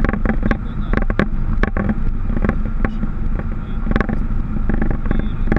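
Boeing 737 cockpit noise: a loud, steady low rumble of engines and airflow with a constant hum, broken by many short, irregular knocks and rattles.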